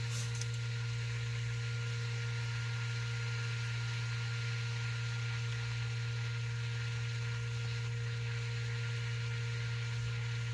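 A steady low hum that holds unchanged throughout, with a faint click or two near the start.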